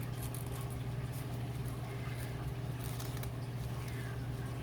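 Scissors snipping and rustling thin nail-art transfer foil, a few faint irregular small clicks, over a steady low hum.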